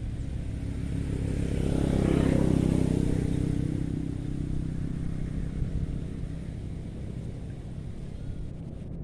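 A motor vehicle passing: a steady low engine rumble that swells to its loudest about two seconds in, then fades away.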